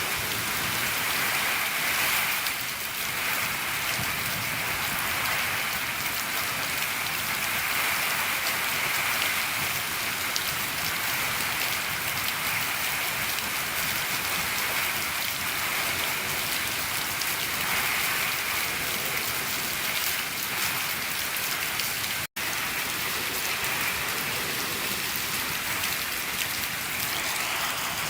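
Steady rain falling on a shed roof, an even, unbroken rush of drops. It is cut once by a split-second gap about three quarters of the way through.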